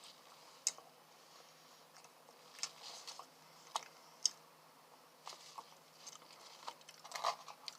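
Quiet chewing of food, with scattered short mouth clicks.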